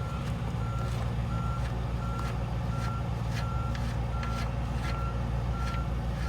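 An electronic warning beeper, like a vehicle's reversing alarm, sounding one steady tone about every 0.7 s over a constant low engine-like hum, with faint light clinks of a tool.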